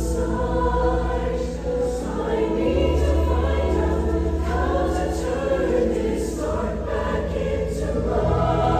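Show choir singing in parts over instrumental accompaniment, with low held bass notes that shift to new pitches a few times.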